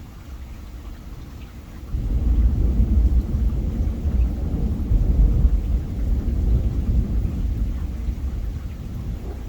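A roll of thunder breaks in suddenly about two seconds in and rumbles on, slowly fading, over steady rain.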